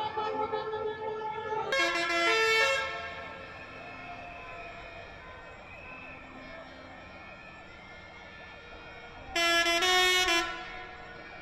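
Vehicle horns blaring in two long blasts, one a couple of seconds in and one near the end, each about a second long and made of several tones at once, over fainter continuing horn tones and the running of tractor engines.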